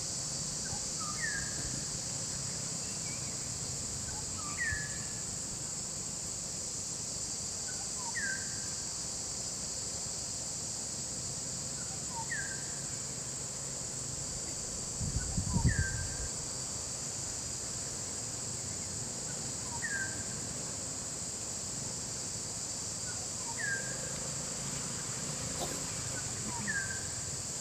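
Steady high-pitched insect chorus, with a bird repeating a short falling call about every four seconds, eight times in all. A brief low rumble comes about halfway through.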